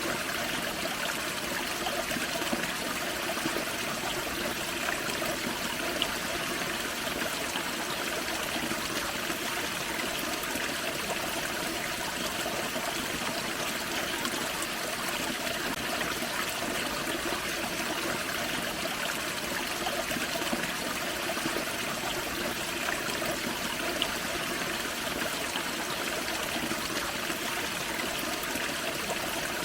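Small waterfall on a forest creek: steady splashing and trickling of running water, with faint irregular drips and splashes.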